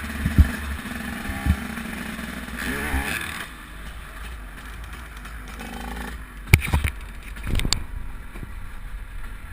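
TM 300 two-stroke motocross bike running at low revs with a short throttle blip about three seconds in, then quieter. Several sharp knocks and clatter come near the end.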